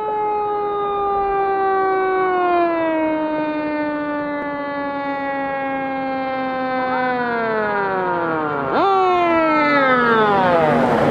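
Fire truck siren sounding a long wail. Its pitch slides slowly downward, drops faster about seven seconds in, then jumps up briefly and falls steeply again near the end.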